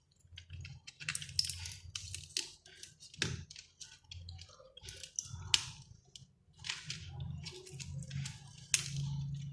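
Irregular crackling clicks and scrapes of a glued-in rechargeable battery being pried loose from a mosquito racket's plastic housing, the glue cracking as it gives, over a steady low hum.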